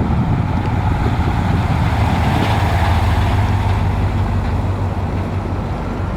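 1993 Dodge Ramcharger's V8 engine running with a steady low hum and a broad noise over it, which swells slightly about two to three seconds in.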